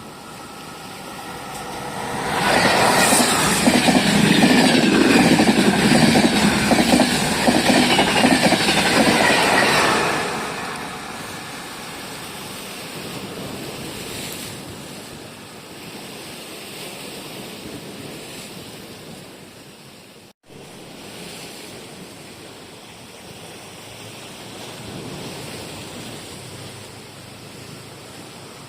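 A train passing close by at speed: a loud rush of wheels on rails sets in about two seconds in and lasts about eight seconds, then falls to a lower rumble as it moves away. After a brief break, a fainter steady rumble continues.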